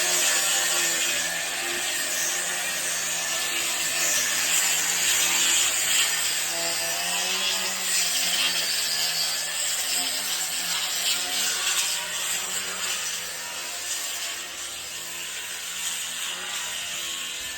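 Sanding down cured filler putty on a boat hull: a steady, loud scraping hiss that carries on with small rises and falls throughout.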